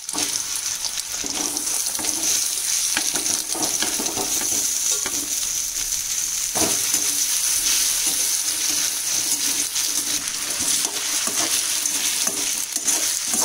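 Diced raw potatoes sizzling in hot sesame oil in a kadai: a steady high hiss with scattered crackles and small knocks. A spoon stirs the potatoes in the pan near the end.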